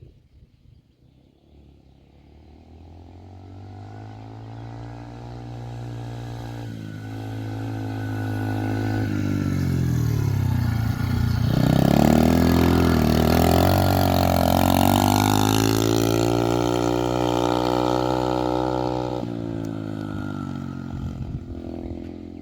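Dirt bike engine coming closer, passing and going away, getting louder and then fading. In the middle the engine pitch drops and climbs again as the throttle is eased off and reopened.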